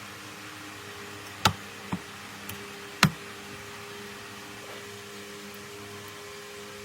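A steady mechanical hum, like a small motor or fan running, with three sharp knocks: two close together, then a third about a second later.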